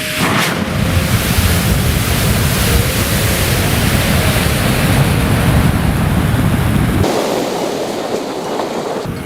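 A mass of burning matches and flammable table-tennis balls flaring together, a loud steady rushing noise like a strong wind; the deepest part of the noise drops away about seven seconds in.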